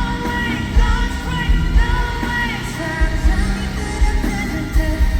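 Live pop-rock music played loud at a concert: a heavy bass beat under a singing voice.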